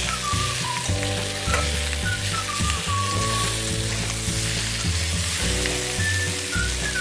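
Brinjal, tomato and green chilli sizzling in hot oil in a steel kadai, with a steel spatula scraping and knocking against the pan as the vegetables are stirred. A tune with low notes plays quietly under the frying.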